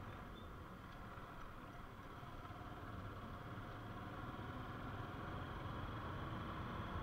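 Steady engine and road rumble of a vehicle being driven, growing slowly louder.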